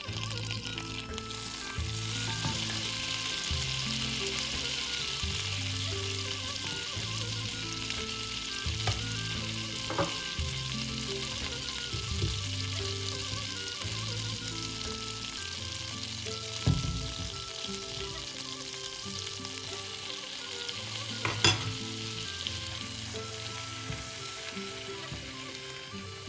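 Butter-based kuymak mixture sizzling steadily in a pan, with a few sharp clicks of a utensil against the pan about ten, seventeen and twenty-one seconds in.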